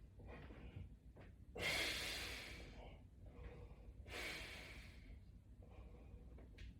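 A man breathing hard with exertion: two forceful exhales, about two and a half seconds apart, as he presses against heavy resistance bands.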